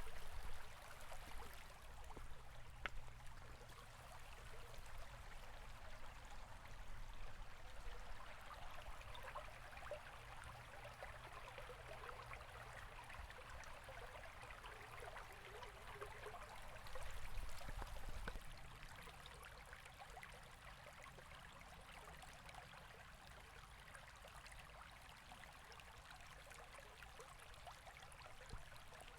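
River water flowing steadily over stones, with a soft low rumble swelling briefly about halfway through.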